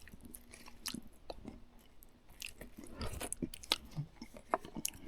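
A person chewing and biting food close to the microphone, a sausage he has just cooked, with soft irregular clicks and smacks of the mouth.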